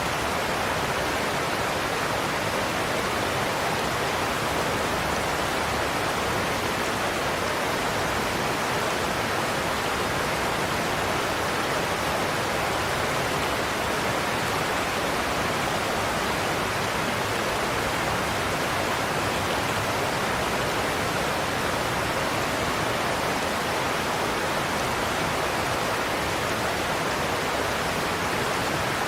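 Godafoss waterfall's cascades rushing over the cliffs, a steady even roar of falling water.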